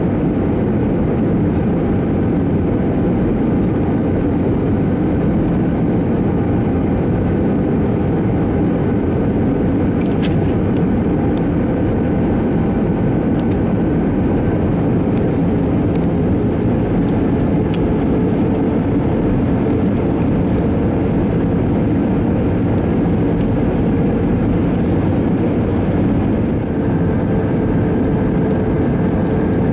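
Steady in-flight roar of an Airbus A321-200's engines and airflow as heard inside the aircraft during the approach, an even drone with a few faint steady tones running through it.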